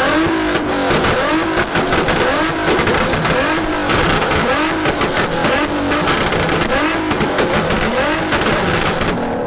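Car engine held on a two-step launch limiter: the revs bounce up and down about twice a second with sharp exhaust pops and bangs, until the engine is let off about nine seconds in.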